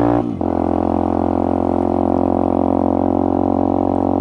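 Benelli motorcycle's engine and exhaust running at steady road speed, seemingly heard from the saddle. The pitch and loudness dip briefly just after the start, then return to a steady drone. The rider finds this exhaust awfully and dreadfully loud and wants to replace it.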